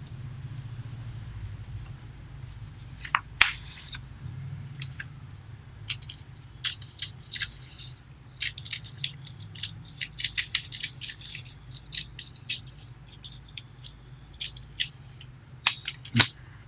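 A sheet of paper being handled and folded by hand: scattered crisp crackles and rustles, over a steady low hum.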